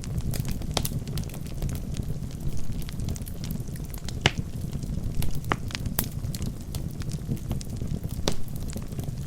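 Wood logs burning in a fireplace: a steady low rumble of flames with scattered sharp crackles and pops, a few louder pops standing out in the middle and near the end.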